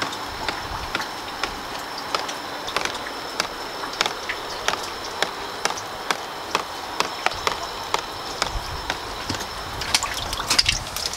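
Small stove fire of resinous pallet fatwood crackling and spitting, with irregular sharp pops several times a second, denser near the end, over a steady hiss. The spitting is the resin oils cooking out of the fatwood chunks.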